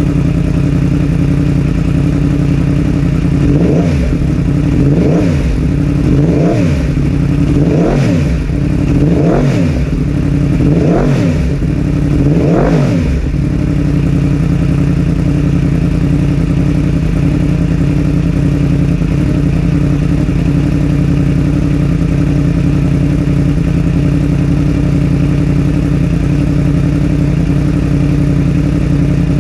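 2021 Yamaha R1's crossplane inline-four running through a Graves exhaust: idling, blipped seven times at about one-and-a-half-second intervals, each rev rising and falling quickly, then settling back to a steady idle.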